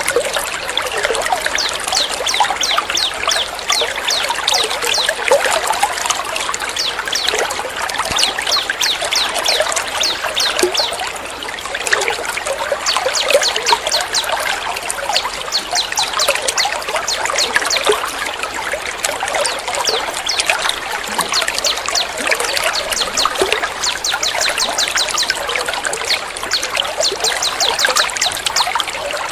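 Trickling water runs steadily under rapid-fire, high-pitched songbird notes, repeated many times a second in long rattling runs, the 'tembak' calls used as a bird-training (masteran) track.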